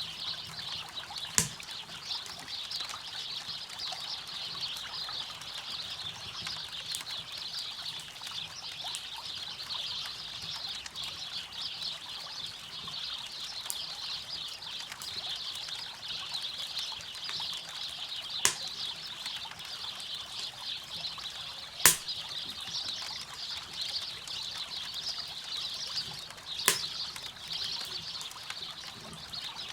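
Campfire crackling over the steady rush of a flowing river, with four sharp pops from the burning wood, the loudest about two-thirds of the way through.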